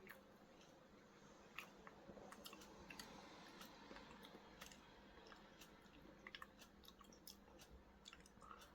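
A person faintly chewing a piece of char-grilled chicken, with scattered small mouth clicks.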